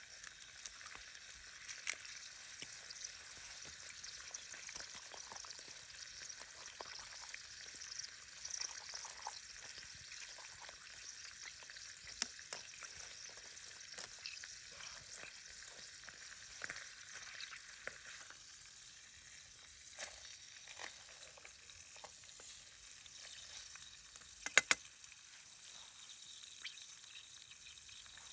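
Steady sizzling hiss full of small crackles and pops. The hiss thins out about two-thirds of the way through, and a quick cluster of loud, sharp cracks comes near the end.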